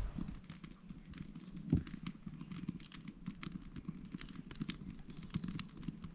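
Wood campfire crackling: a steady, irregular scatter of small sharp pops, with one louder pop or thump about two seconds in.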